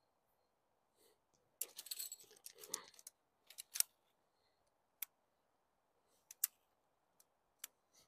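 Tent kit being handled: a burst of rustling and clicking from aluminium tent poles and fabric about a second and a half in, then single sharp clicks every second or so.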